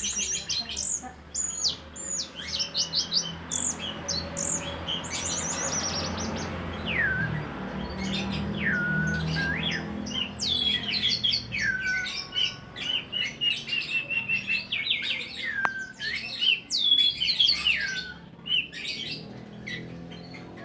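Songbird singing a fast, varied song of high chirps and trills, broken every few seconds by a longer whistle that slides steeply down in pitch, the kind of song played to train a caged anis (thrush).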